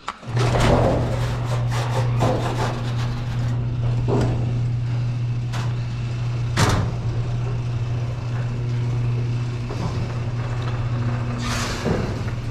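Electric garage door opener running, a steady motor hum with rattles and clanks from the moving door; it starts abruptly and stops after about twelve seconds.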